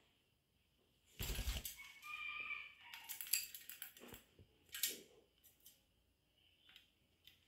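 A parrot in a home setting: a rattling knock, then a short pitched call about two seconds in, followed by a quick run of sharp metallic clicks and another rattle.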